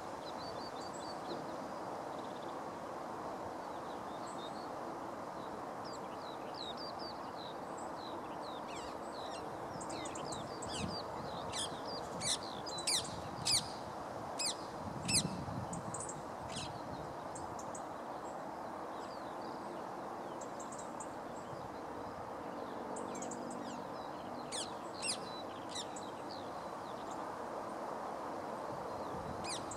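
Birds calling in short, sharp, high chirps over steady background noise. The calls come in a flurry around the middle and a few more later on.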